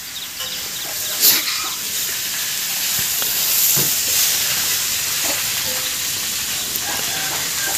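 Vegetables sizzling in a wok as they are stir-fried: a steady frying hiss with a few faint knocks.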